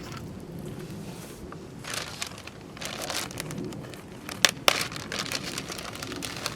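Small wood fire crackling, with irregular snaps and two sharp pops about four and a half seconds in.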